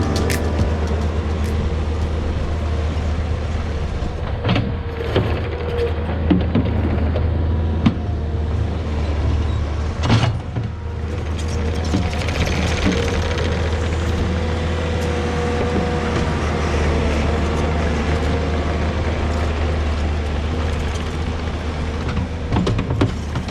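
Takeuchi skid steer's diesel engine running steadily under work while it strips out sod, with a few sharp clanks from the bucket or machine, one about four seconds in and one about ten seconds in.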